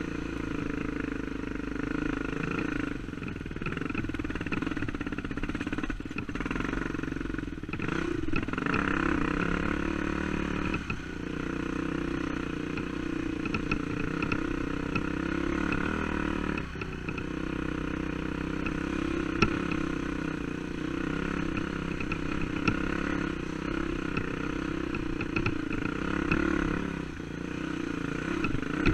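Dirt bike engine running steadily while being ridden, its revs easing off and picking up again every few seconds, with a few sharp clicks and clatter.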